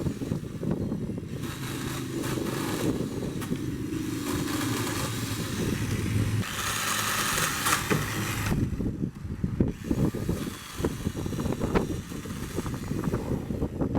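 Ryobi 6-amp corded electric pole chainsaw running and cutting through branches, with a louder, hissier stretch of cutting lasting about two seconds midway.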